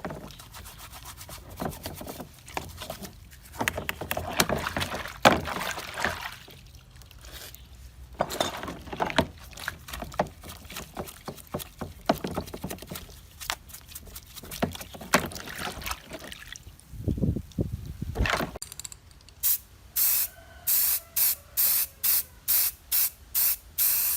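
Clicks, knocks and scraping of metal parts being handled, then near the end rapid, evenly spaced short bursts of spraying hiss, about two a second.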